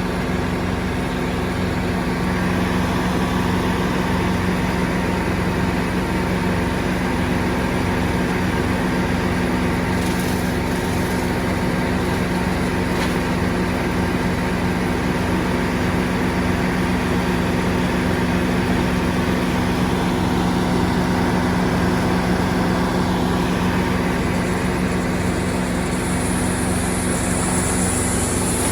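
A large engine running steadily at constant speed, with a low, even hum.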